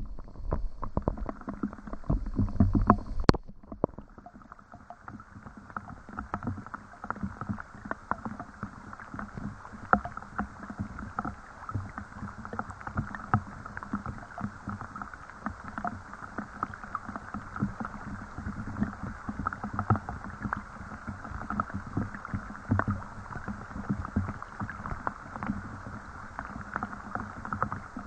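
Rain falling, a dense steady patter of drops, with heavier low thuds in the first few seconds that drop away at about three and a half seconds.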